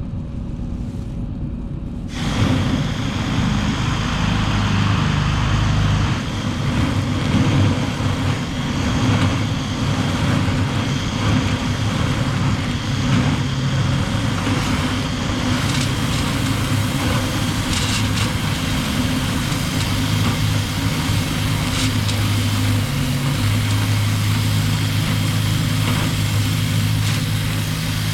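Motor-driven dryer vent cleaning equipment starts about two seconds in and runs steadily with a low drone and occasional knocks, working the duct at its elbow.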